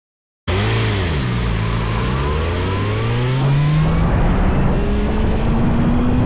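Kawasaki ZX-6R's inline-four engine starting up abruptly about half a second in: a quick rise and fall in revs, then the pitch climbing steadily as the bike accelerates, over a steady rush of noise.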